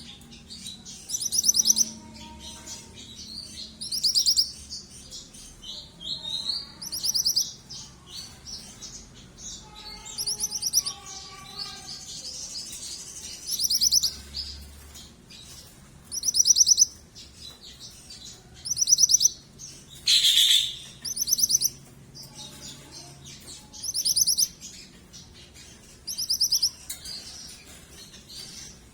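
Young yellow common iora (burung mantenan) calling over and over: short, very high, rapid trilled notes about every two to three seconds, with one louder, lower call about two-thirds of the way through.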